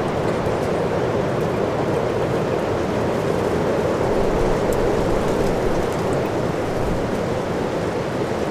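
Strong wind blowing steadily, a dense rushing noise.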